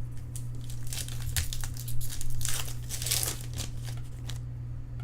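Plastic trading-card pack wrapper crinkling and tearing as it is opened by hand: a quick run of crackles, thickest in the middle and thinning out near the end.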